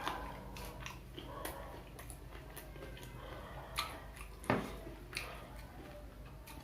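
Close-up chewing and mouth sounds of someone eating Indonesian fried snacks (gorengan), with scattered small clicks and one sharp knock about four and a half seconds in.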